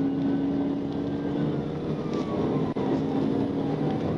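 Police patrol car driving hard in a pursuit: engine running steadily at high revs under a dense rush of road and wind noise, with a faint slow rising-and-falling tone of the siren.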